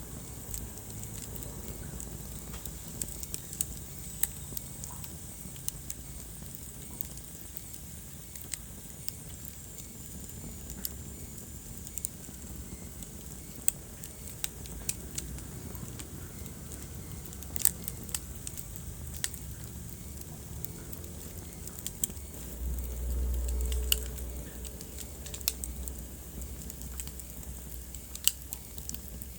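Wood fire crackling in a fireplace: irregular sharp pops and snaps over a steady soft hiss. A brief low rumble swells about three-quarters of the way through.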